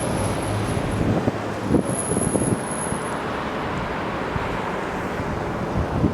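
Steady rumble of road traffic going by.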